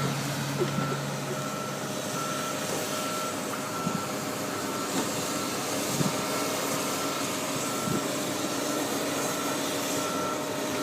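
Reversing alarm on the heavy equipment moving the boat, beeping steadily at about two beeps a second over a running engine.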